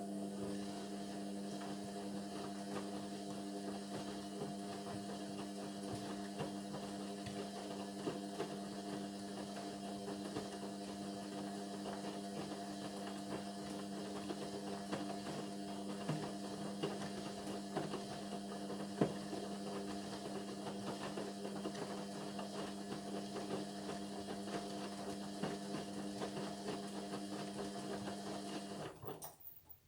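Indesit washing machine running its synthetics programme: a steady motor hum with faint ticks, which starts suddenly and stops suddenly near the end.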